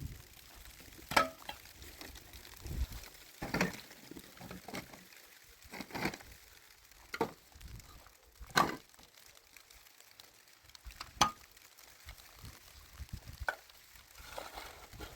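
A series of separate sharp knocks, about seven, coming irregularly every one to two and a half seconds.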